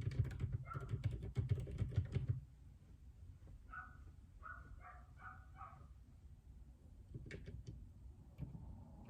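Typing on a JJK84 mechanical keyboard with Outemu Silent Peach linear switches: a quick run of keystrokes for about two seconds, then a pause with a few scattered key presses, and typing picks up again near the end. In the pause, four or five short high chirps are heard.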